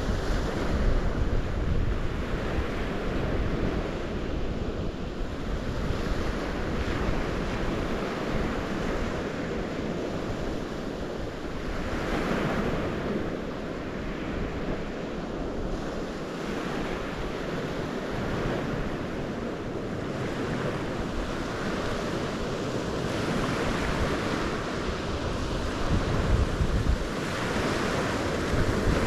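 Waves on the St. Lawrence River washing ashore, swelling and easing every several seconds. Wind buffets the microphone, with a low rumble strongest near the start and the end.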